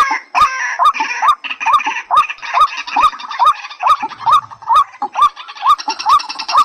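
Recorded calls of white-breasted waterhen and watercock: a fast, even series of short rising notes, a little over two a second.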